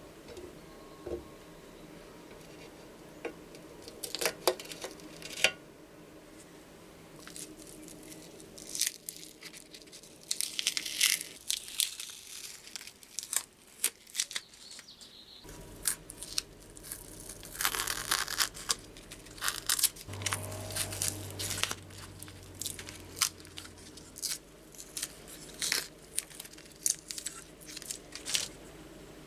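Hand-work noises at a workbench: scattered clicks and taps with short rasping, scraping strokes, twice drawn out for a second or two. A low steady hum comes in about halfway through.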